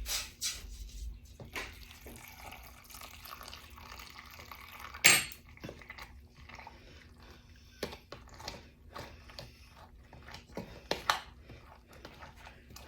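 Hot brine being poured into a glass jar packed with garlic cloves, trickling and dripping, with scattered clinks and knocks against the jar. The loudest knock comes about five seconds in.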